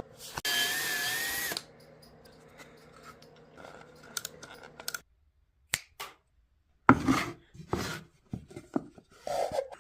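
A power drill runs in one short burst of about a second with a steady whine, followed later by a few short knocks of wood being handled.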